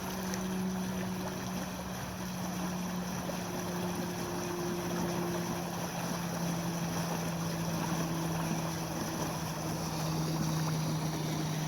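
Water flowing in a steady rush, with a steady low hum running underneath.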